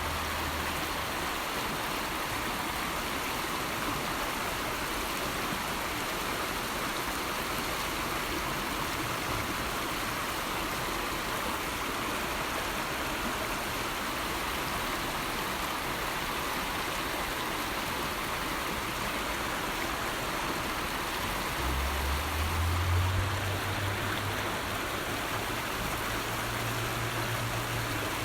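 River water flowing steadily, an even rushing wash. A low rumble joins it about three-quarters of the way through, briefly a little louder.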